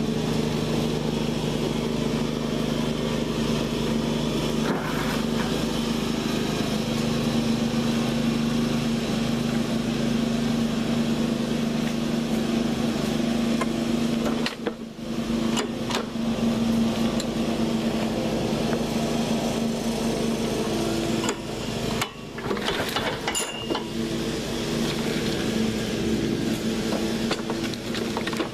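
Lawn Boy Silver Series lawn mower engine running steadily after a cold start, briefly dipping in level about halfway through and again about three-quarters of the way through.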